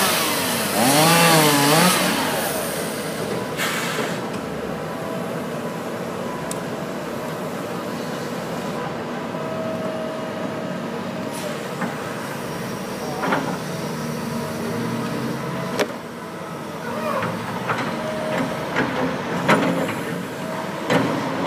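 A chainsaw revving up and down for about the first two seconds, then a steady engine running with a few sharp knocks and clatters, more of them near the end.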